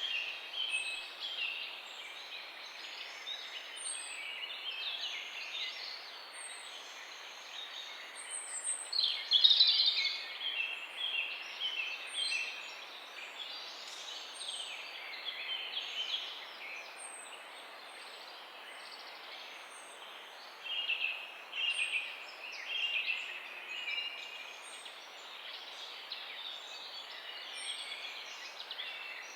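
Morning chorus of several small songbirds chirping and twittering, with a thin high note repeating about once a second over a steady background hiss. A burst of louder, busier song comes about nine seconds in, and another flurry about twenty-one seconds in.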